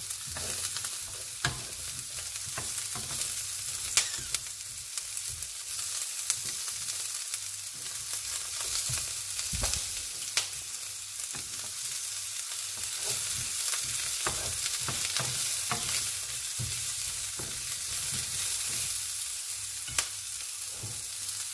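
Diced onions and garlic sizzling in oil in a frying pan as they are stirred with a wooden spoon, a steady hiss with a few sharp clicks of the spoon against the pan now and then.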